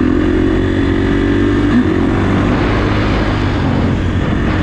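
Kawasaki KX450 dirt bike's single-cylinder four-stroke engine running steadily at an even pitch.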